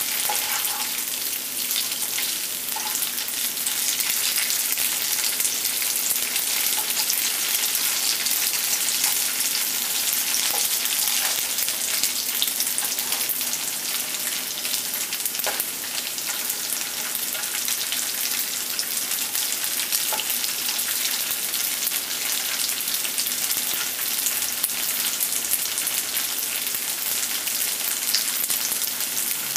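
Tofu cubes sizzling steadily in hot oil in a frying pan, with a spatula now and then scraping and turning them.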